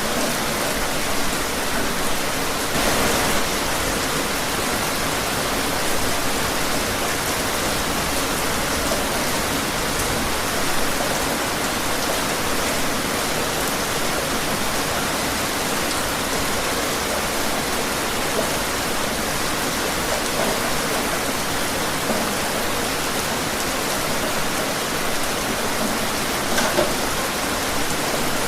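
Steady rain falling, an even hiss with scattered drops, a little louder for a moment about three seconds in and again near the end.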